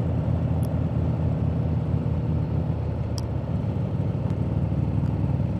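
Harley-Davidson motorcycle's V-twin engine running steadily at road speed, heard from on the bike over a haze of wind and road noise.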